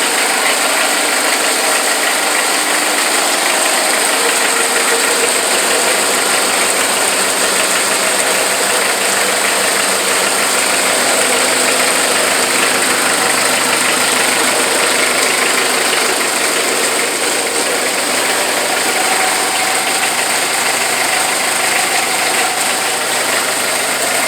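Mitsubishi MT1801 compact tractor's diesel engine running steadily, with no change in speed.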